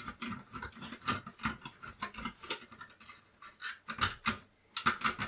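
Screwdriver turning screws out of a Commodore 64, a run of irregular small clicks and scrapes, with a few sharper clicks near the end.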